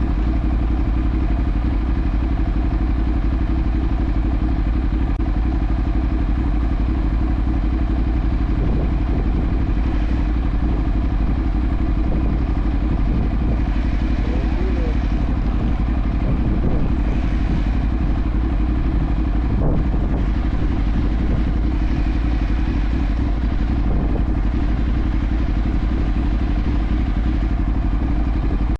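Ducati 848's L-twin engine running steadily at idle, with no revving.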